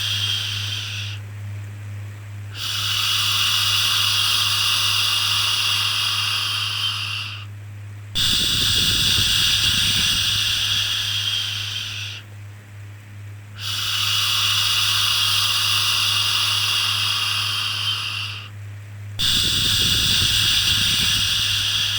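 Repeated long "shhh" shushing sounds of the kind used to soothe a baby, each held for about four to five seconds with a short pause of about a second between them, over a steady low hum.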